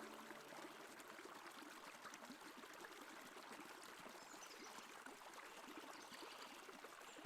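Faint trickling water, a steady fine patter of small splashes like a small forest stream.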